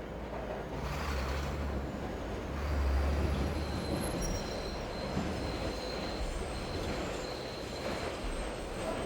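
A train passing with a low rumble that swells about a second in, then thin high squealing tones from about four seconds on, over a steady hiss of rain.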